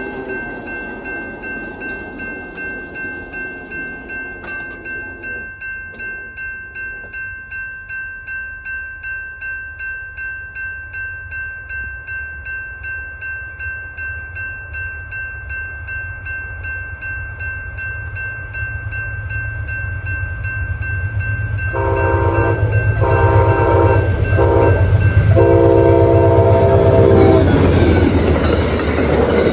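A grade-crossing warning bell rings steadily at about two strokes a second as an approaching Amtrak train sounds its horn in four blasts, the last one long, the standard crossing signal. The train's rumble builds toward the end as it reaches the crossing and passes.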